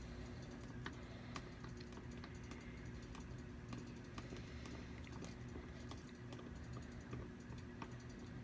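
Faint, irregular light clicks and taps of a stirring utensil against a small container as glue and water are mixed, over a faint steady low hum.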